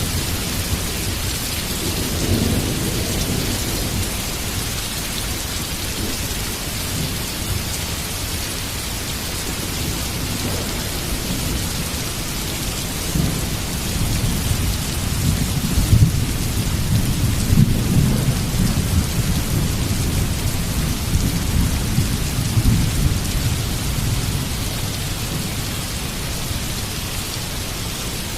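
Heavy rain falling steadily, with low rolling thunder that swells a little past halfway, loudest in a few deep rumbles, then eases.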